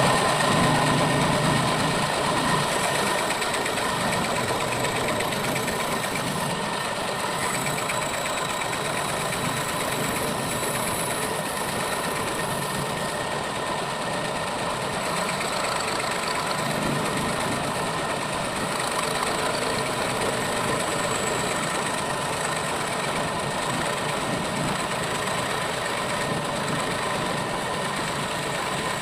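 Electric woodworking power tool running steadily with a constant high whine.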